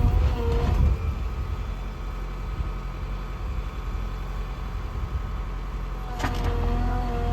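Heavy diesel engine of earthmoving machinery running steadily, louder for the first second and then settling to a lower, even rumble.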